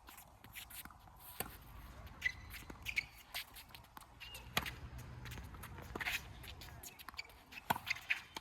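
Shoes scuffing and shuffling on a hard court, with scattered sharp knocks, the loudest of them about a second and a half, four and a half, six and seven and a half seconds in.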